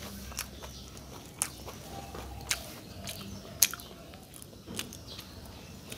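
A person chewing a lettuce wrap filled with crispy batter-fried banana blossom, with a few sharp crunches about a second apart.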